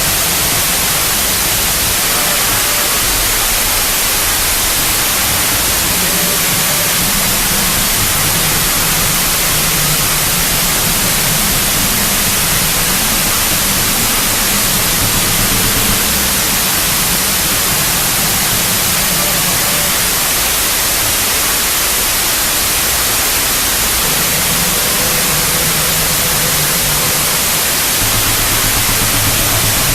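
Harsh noise music: a loud, unbroken wall of hissing static, with low droning tones that shift and drop out underneath.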